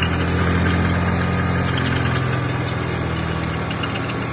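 Car engine running and settling toward idle, its level easing down slightly over the first couple of seconds. It is the engine whose strange noise on acceleration is under investigation.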